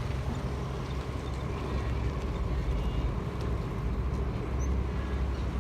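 Ferry engine running with a steady low rumble.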